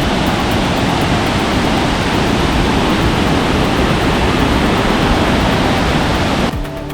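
Small waterfall, water rushing loudly and steadily. Near the end it cuts off abruptly and music takes over.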